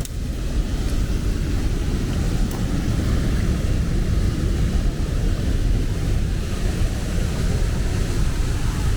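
Wind buffeting the microphone: a continuous, gusty low rumble over a steady rushing hiss.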